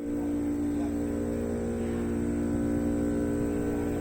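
A steady, even hum of several fixed tones over a low rumble, with no change in pitch or level.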